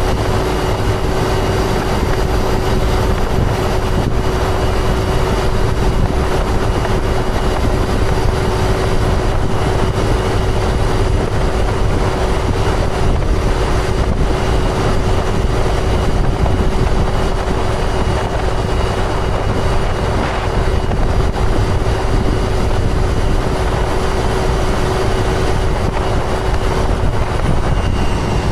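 2005 John Deere self-propelled sprayer running steadily in the field: a constant engine and machinery drone with a steady whine over it. The whine dips slightly in pitch near the end.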